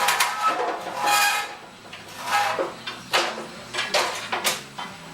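Metal pipe being handled, clanking and scraping. There are several knocks about a second apart, some with a short ring.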